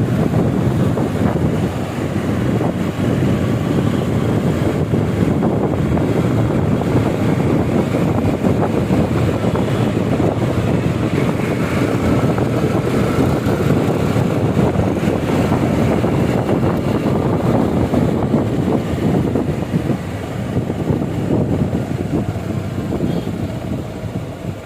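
Wind buffeting the microphone of a moving motorcycle, a steady low rush mixed with road noise. It eases somewhat near the end as the bike slows.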